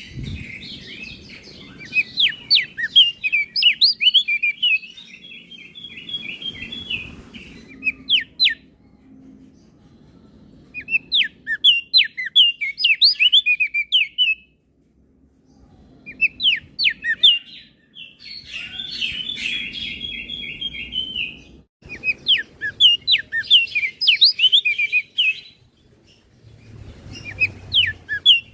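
Crested white-eye (opior jambul) singing in repeated bouts of fast, high chirping notes, each bout a second or a few seconds long with short pauses between, some bouts running into a buzzy chattering rattle.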